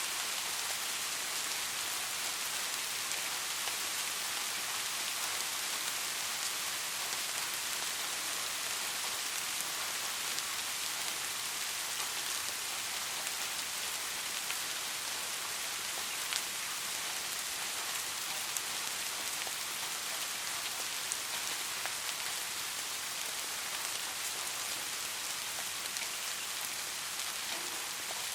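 Steady rain falling on a street, an even hiss with a few separate drop ticks now and then.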